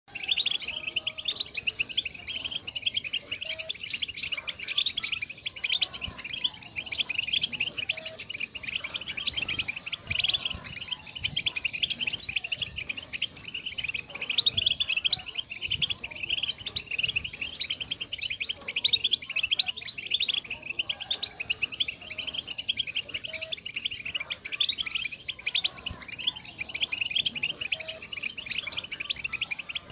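European goldfinch song: a dense, unbroken stream of fast twittering chirps and trills, the 'bitbita' style of goldfinch song played to spur caged goldfinches into singing.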